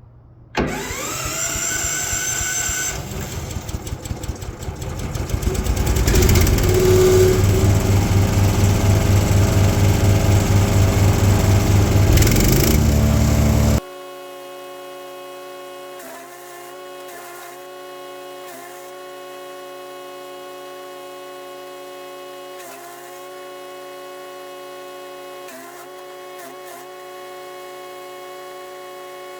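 Wood chipper's 420cc four-stroke engine starting with a sudden rise in pitch, then running loud and pulsing before cutting off abruptly about 14 seconds in. After that, a steady, even hum with many overtones.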